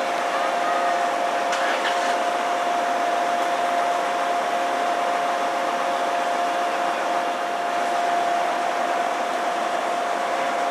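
Steady whooshing drone with two unchanging hum tones, the sound of a diesel train standing at the station with its engine running.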